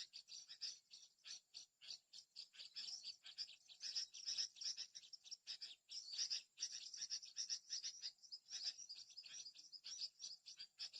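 Common iora (cipoh) calls: a dense, unbroken run of short, high chirps, several a second.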